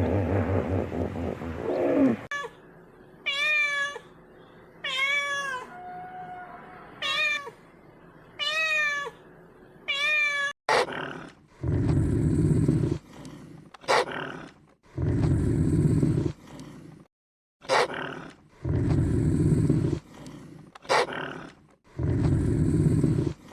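Animal calls: a low growl for the first two seconds, then about six short pitched calls, each rising and falling. From about halfway, repeated low, rough calls follow, each a second or so long and each starting with a sharp click.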